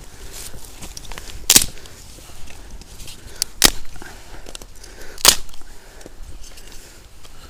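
Campfire burning, its wood crackling with a few sharp pops, three loudest about a second and a half, three and a half and five seconds in.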